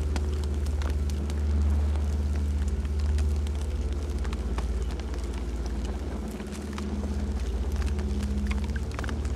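Campfire burning with irregular sharp crackles and pops over a steady low rumble.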